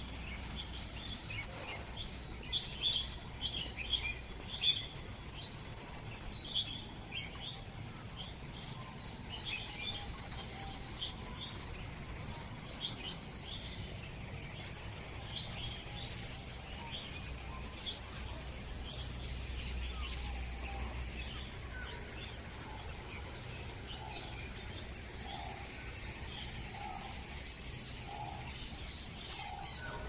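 Birds in a walk-through aviary calling, with many short high chirps in the first half. Near the end, a lower call note repeats about once a second, all over steady background noise.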